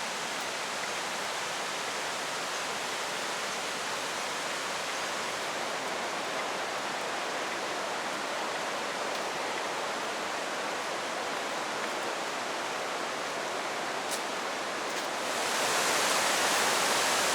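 Rushing water of a waterfall, a steady even rush that grows louder and brighter near the end.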